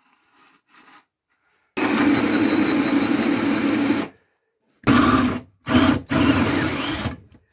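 Electric drill running: one run of about two seconds, then three shorter bursts as the bit works through the wood.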